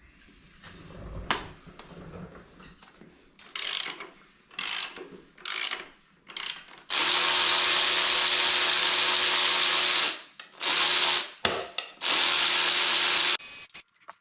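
Power tool run in several short bursts, then held for about three seconds, then two more bursts near the end, with a steady motor whine: running out fasteners while stripping down a Ford Focus ST225 engine.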